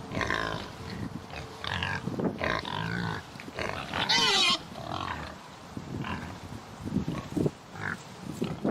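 Pig grunting repeatedly, with one loud, shrill squeal about four seconds in.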